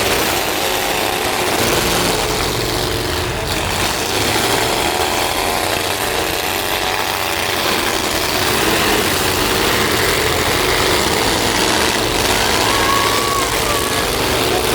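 Truck engines running steadily.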